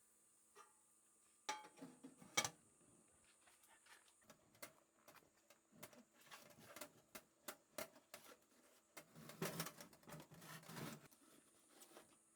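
Faint, scattered clinks and knocks of hard objects being handled, with two sharp knocks about two seconds in and a longer stretch of clattering near the end.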